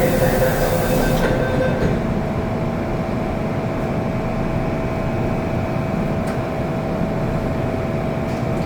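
MTR Kwun Tong Line M-Train running on the track, a steady rumble with a constant hum through it. A high hiss stops about a second in, and a held tone stops shortly after.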